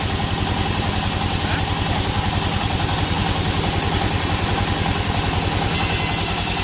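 Sawmill engine running steadily with a fast, even pulse. About three-quarters of the way in a brighter hiss joins it.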